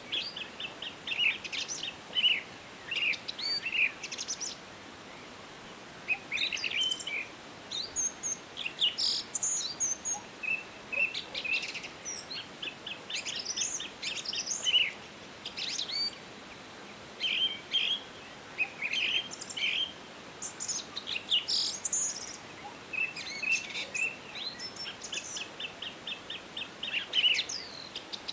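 Several songbirds chirping and trilling, short calls and quick repeated note series coming thick and fast over a faint steady hiss of forest background.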